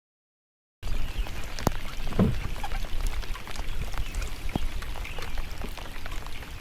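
Water splashing and dripping, with many small clicks and taps over a low steady rumble; it starts suddenly about a second in and cuts off near the end.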